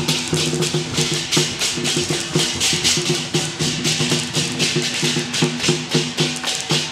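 Temple procession music: a stepped melody carried over steady, rapid cymbal and percussion strokes.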